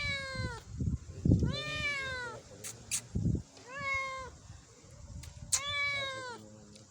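Cat meowing repeatedly: four drawn-out meows, each falling in pitch, about every one and a half to two seconds, with a few low thumps between them.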